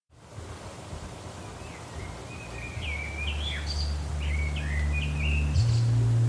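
Birds chirping in short calls over a low, sustained background-music drone that fades in and grows louder; the low note steps up in pitch near the end.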